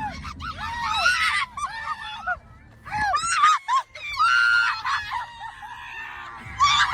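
People screaming in fright: many short, high-pitched shrieks one after another, with a longer held scream about four seconds in.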